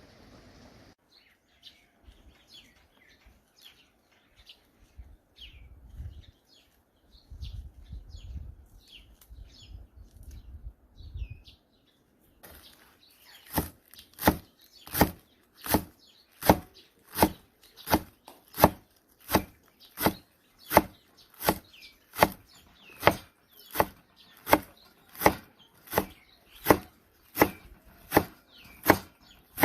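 Birds chirping over faint low thuds; then, from a little before halfway, a steady run of sharp, loud strikes, a bit more than one a second.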